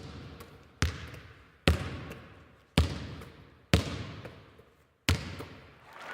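A basketball bounced slowly, six hard bounces about a second apart, each followed by a long echo that dies away.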